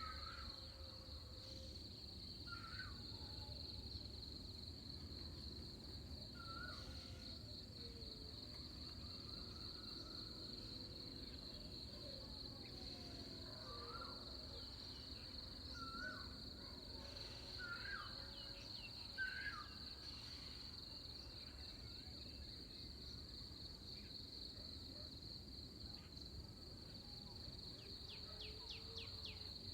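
Pre-dawn insect chorus: a steady, high, pulsing trill throughout, with short bird chirps every few seconds, a cluster of them around the middle, over a low background rumble.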